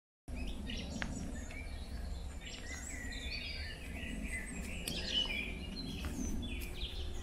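Several songbirds chirping and singing, short calls overlapping throughout, over a steady low rumble.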